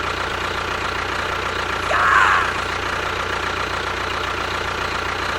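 A steady engine-like running noise, as of a machine idling, with a brief higher-pitched sound about two seconds in.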